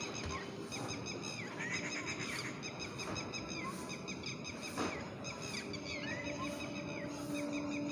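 Birds chirping over and over in short, quick, downward-curving calls. A steady low hum comes in about two-thirds of the way through.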